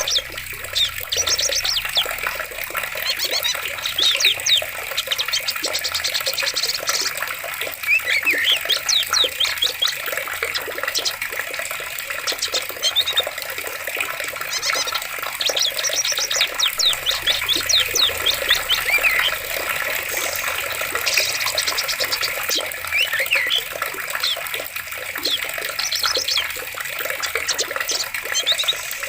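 Steady rushing of flowing water with many birds calling over it, in short chirps and trills that come and go throughout.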